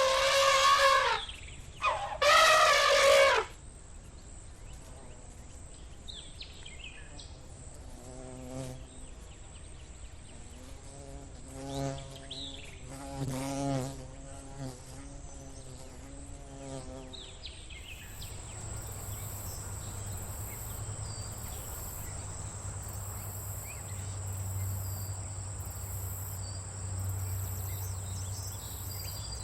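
Two loud animal calls with a wavering pitch, then a series of quieter, lower calls. In the second half, insects buzz steadily, with a high chirp pulsing about every second and a half.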